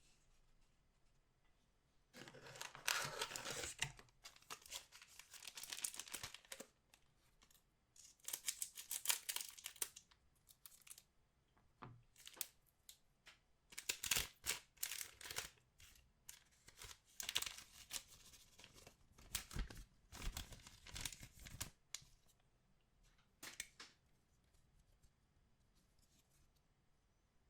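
Trading-card pack wrappers being torn open and crinkled by hand, in repeated bouts of tearing and rustling.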